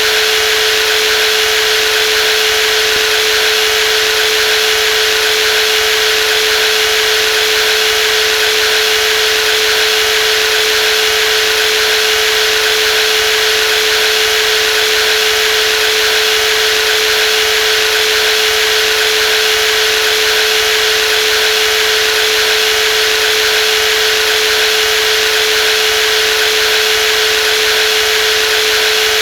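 Brushless jigsaw running continuously at steady speed: a constant motor whine with one strong steady tone and a dense high hiss, no change in pitch or level.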